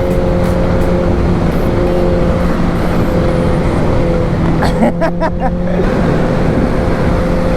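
Motorcycle engine running at a steady pitch while riding at constant speed, over a steady rush of wind and road noise.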